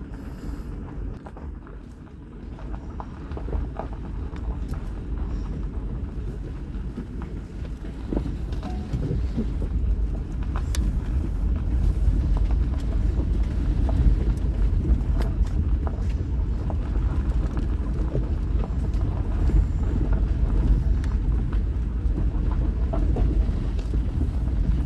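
Vehicle driving down a rough back road: a steady low rumble with scattered knocks and rattles, getting louder after the first few seconds.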